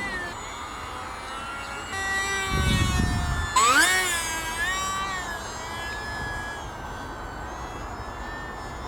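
E-flite Delta Ray One RC airplane's electric motor and propeller whining, the pitch sliding up and down with the throttle. A sharp climb in pitch about three and a half seconds in is the loudest part, after which the whine settles steadier and softer.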